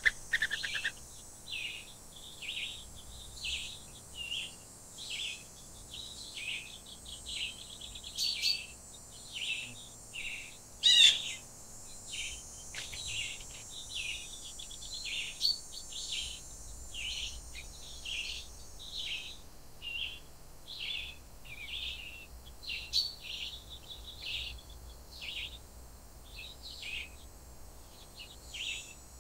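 Wild songbirds calling: one bird repeats a short high chirp about twice a second throughout, with a louder, sharper call about eleven seconds in. A faint high hiss lies under the first half.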